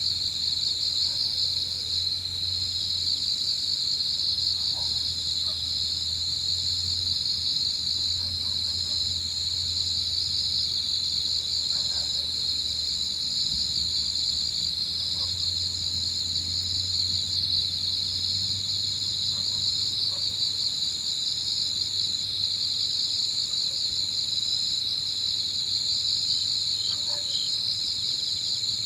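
Autumn evening chorus of crickets and other insects: a dense, steady high trill, with a second, higher chirping layer that breaks off briefly every second or two.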